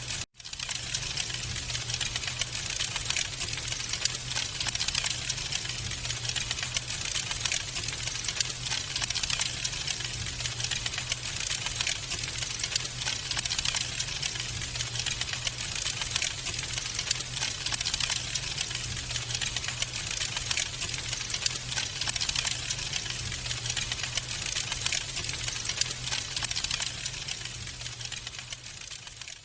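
Wood fire crackling in a fireplace: dense, rapid pops and snaps over a steady low hum. The sound drops out for a moment just after the start and fades down near the end.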